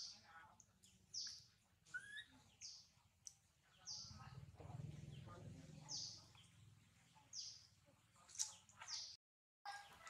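Faint, short high chirps of a small bird, each sliding downward, repeated about once a second, with a low rumble in the middle.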